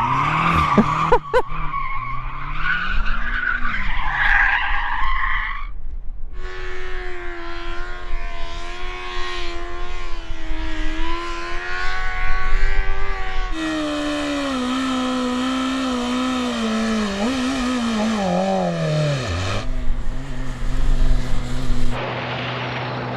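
Tyres squealing and skidding under a revving engine as a performance car does donuts. Then comes high-performance engine running at steady revs, with its pitch falling away to a low, steady note. The sound changes abruptly at several cuts.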